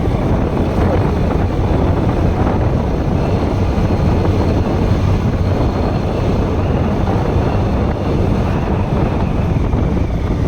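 Bajaj Pulsar NS160 motorcycle riding along at a steady speed: its single-cylinder engine running under wind rush on the microphone.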